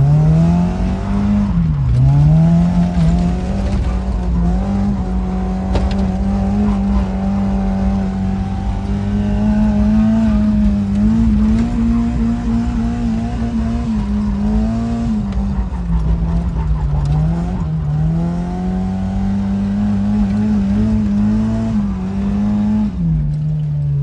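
Mazda Miata drift car's engine running at high revs and held there, with brief drops in pitch that climb straight back up a few times, and the revs falling away near the end.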